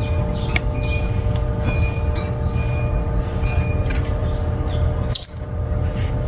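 Caged African lovebirds chirping in short high calls, with one loud, sharp shriek about five seconds in, over a steady low rumble and hum.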